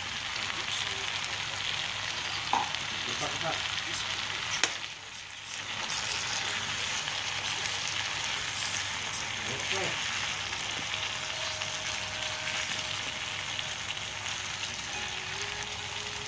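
Green beans, carrots and sardines sizzling in hot oil in a frying pan as they are stir-fried and stirred with a spoon, with two sharp knocks of the spoon against the pan in the first five seconds.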